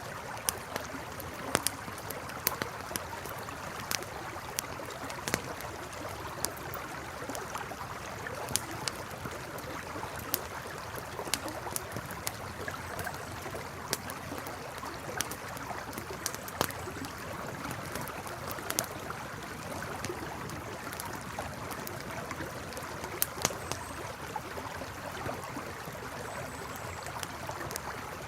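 Campfire crackling with irregular sharp pops, over the steady rush of a flowing river.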